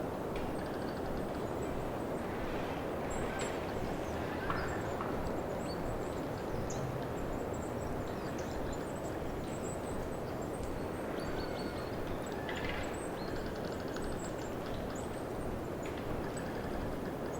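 Wind rushing steadily through a pine forest, with faint, brief high bird chirps over it.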